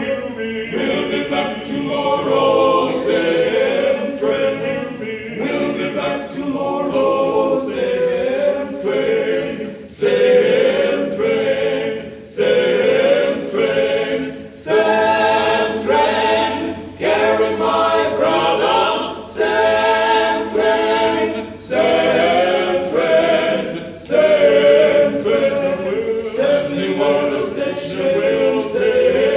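Southern gospel male quartet singing a cappella in close harmony, in short rhythmic phrases.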